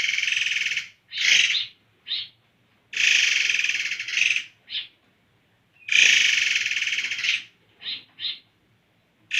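Unidentified animal call, taken for a mysterious bird: a rapidly pulsed trill about a second long, then two short notes, the phrase repeating about every three seconds, three times over.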